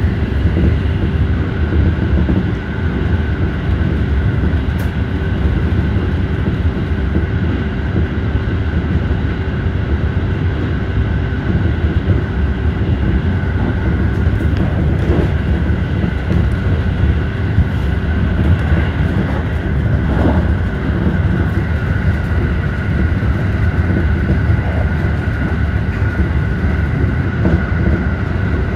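JR Central 313 series electric train running steadily at speed, heard from inside the leading car: a continuous rumble of wheels on rail with a faint steady whine above it.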